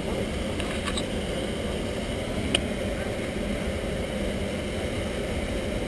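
A caught fish being struck to kill it: a faint knock about a second in and one sharp knock about two and a half seconds in, over a steady rushing background noise.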